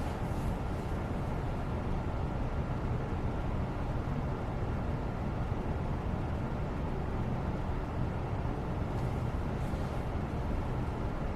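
Steady low, rumbling background noise with no change in level, with faint brief soft rustles near the start and again about nine seconds in.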